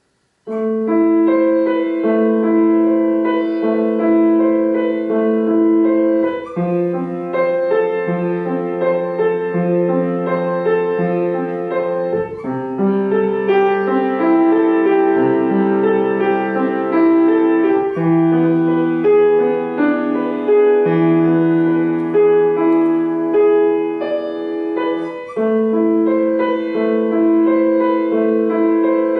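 Solo piano played by a first-year pupil: a simple, slow piece built on repeated figures of held notes in the middle register, beginning about half a second in.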